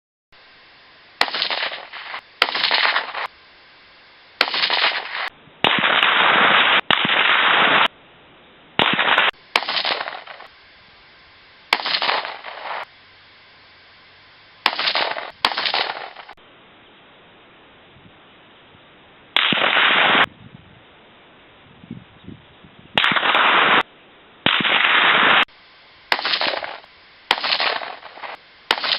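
Rifle shots, a dozen or more, each a sharp crack followed by a loud rolling report lasting up to a second or so, with gaps of one to three seconds between them.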